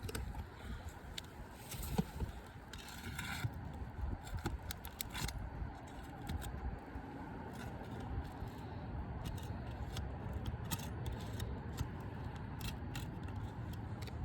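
Flat pry bar scraping and clicking under asphalt roof shingles as the roofing nails are worked loose, in many short, irregular strokes over a low steady rumble.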